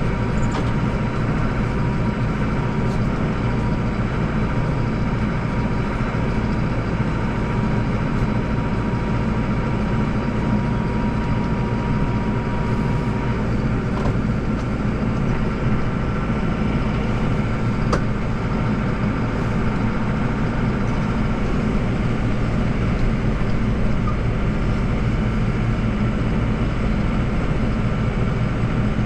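Deutz tractor's diesel engine running steadily under load while driving its snowblower, a constant mechanical drone with an even engine tone.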